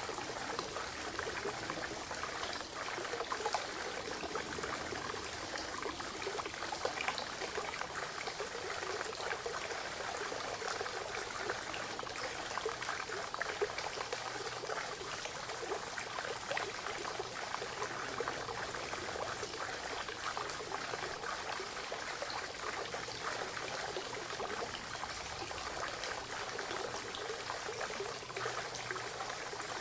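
Small stream of spring water trickling and pouring into a forest pond, a steady babbling with many small splashes.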